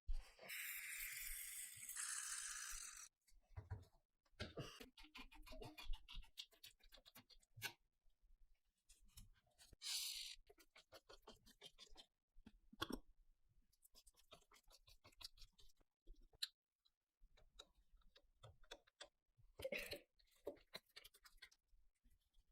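Quiet workshop handwork on small parts: scattered clicks, taps and light scraping, with a short burst of hissing in the first few seconds.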